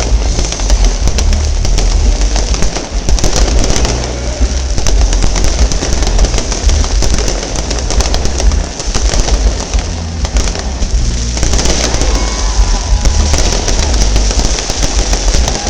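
Fireworks going off in a dense, continuous barrage of booms and crackles, with music playing underneath.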